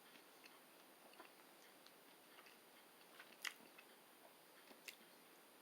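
Faint chewing of a Nature Valley peanut butter and cranberry nut bar: a few small crunches and mouth clicks, the loudest about three and a half seconds in.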